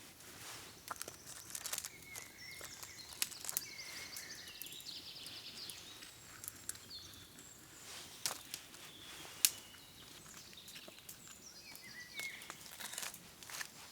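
Songbirds singing in the woods, short chirps and a quick trill, with scattered sharp clicks and knocks of camp activity; the sharpest knock is about halfway through.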